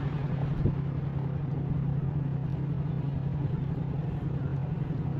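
Harley-Davidson Road King's V-twin engine running at a steady, unchanging speed, a constant low rumble, with one short click about a second in.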